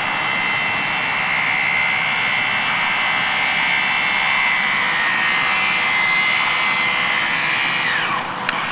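Small electric model motor whining steadily at a high pitch over a loud rushing noise, the whine falling in pitch near the end as it slows.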